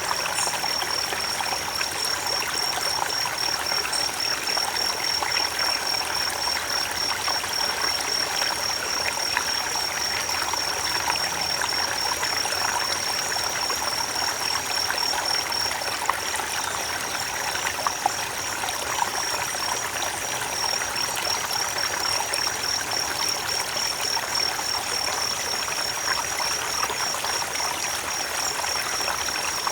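Creek water running over rocks in a steady, even rush with light trickling. A thin, steady high-pitched tone sits above the water throughout.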